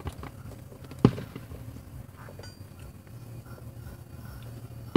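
Aerial firework shell bursting with a single sharp boom about a second in, and a second, smaller bang near the end.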